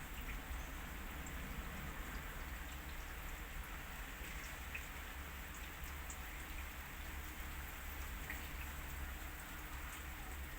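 Steady rain falling during a thunderstorm, an even hiss with scattered drops ticking, over a low steady hum.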